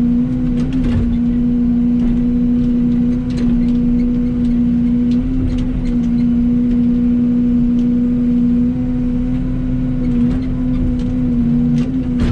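Yanmar excavator's diesel engine running at a steady speed under hydraulic work, with a few faint knocks over it.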